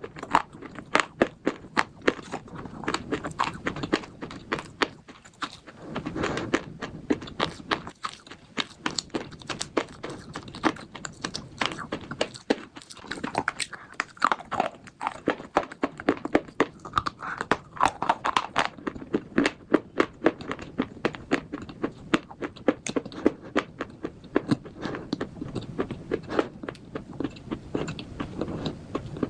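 Slate bars being bitten and chewed, a continuous run of crunches several times a second.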